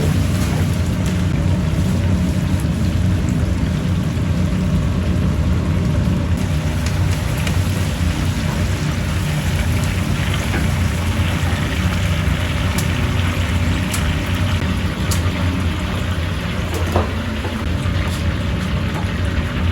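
Chicken deep-frying in hot oil, a steady sizzle with scattered small crackles, over a steady low hum.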